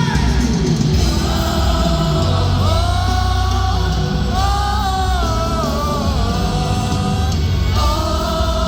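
Live rock band playing at concert volume, with heavy bass and drums and a gliding sung melody line over them.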